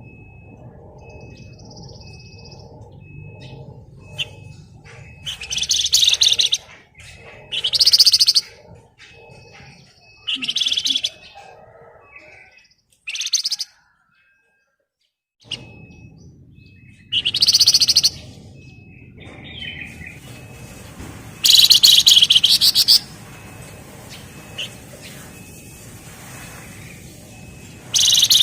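A flamboyan (Wergan Jawa, Javan fulvetta) singing in loud bursts of rapid, dense rattling trill, about seven bursts of roughly a second each. This is the fast 'ngebren' trill keepers prize in a bird in full song. A faint high peep repeats evenly underneath.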